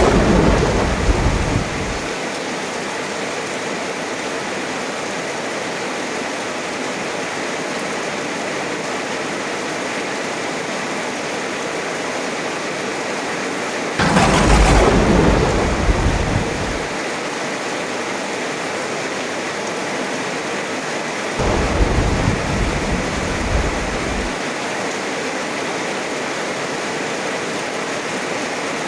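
Steady heavy rain with three rolls of thunder. The first is already sounding as the rain begins and dies away about two seconds in; a sharper clap comes about halfway through and rumbles off over about three seconds; a weaker, lower rumble follows about three quarters of the way through.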